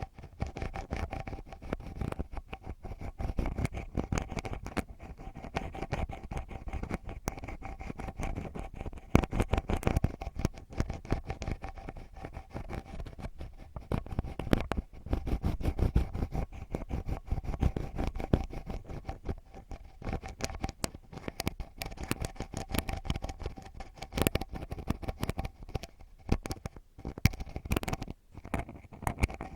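Ear pick scratching and rubbing right at the microphone for ASMR ear cleaning: a dense, irregular run of close crackling scrapes and clicks, over a faint steady hum.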